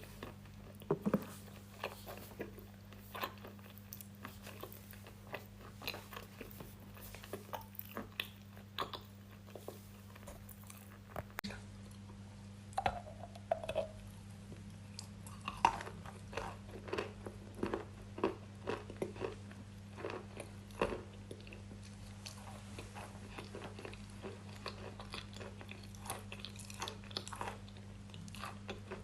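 Close-miked crunchy eating: food bitten and chewed with many irregular sharp crunches and crackles, over a steady low hum.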